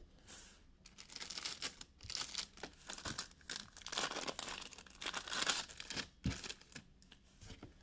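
Foil trading-card pack wrappers crinkling and tearing as packs are ripped open by hand, in a string of uneven crackling bursts.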